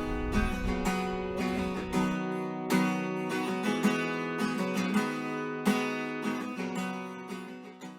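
Background music of a strummed acoustic guitar playing chords, fading out near the end.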